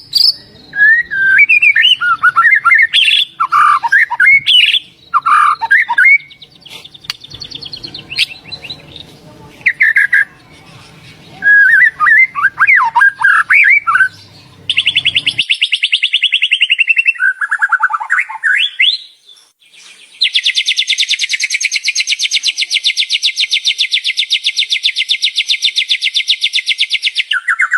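White-rumped shama (murai batu) singing varied whistled phrases, then a fast buzzing trill: a short one of about a second near the middle and a long unbroken one of about seven seconds in the last third.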